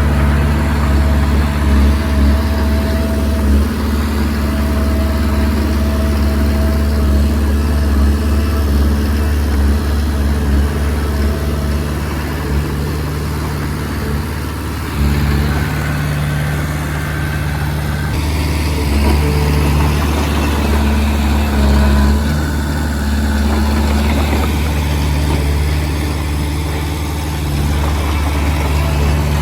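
Komatsu D20P crawler bulldozer's diesel engine running steadily while working, with a deep drone and a faint steady whine above it. The level sags a little for a few seconds around the middle, then picks back up.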